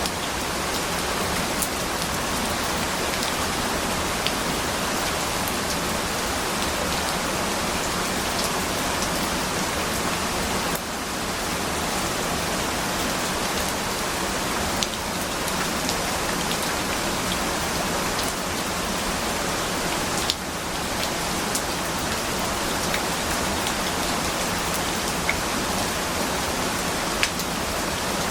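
Steady rain falling on a surface, an even hiss with occasional distinct drops ticking through it; the level dips briefly twice.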